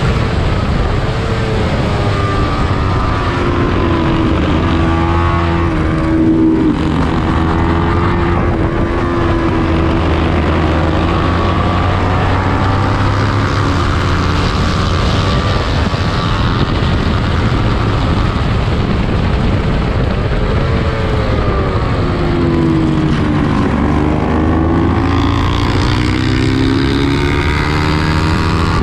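Small-displacement 300-class racing motorcycle engine at high revs, its pitch climbing through the gears. The pitch drops sharply twice, about six seconds in and again around twenty-three seconds, as the engine comes off the throttle, then climbs again.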